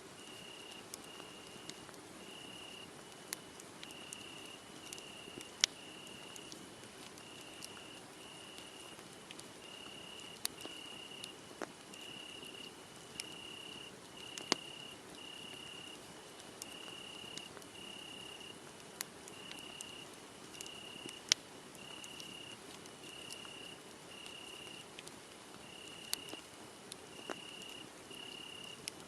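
Crickets chirping in an even pulse of a little more than one chirp a second, over a crackling wood fire that gives off scattered sharp pops. The pops are the loudest sounds.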